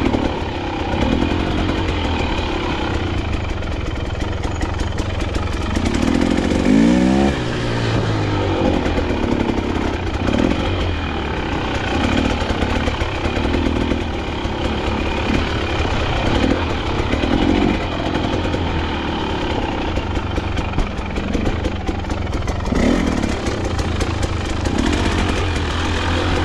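KTM dirt bike engine running under way off-road, its revs rising and falling repeatedly, with a quick sharp rev about seven seconds in.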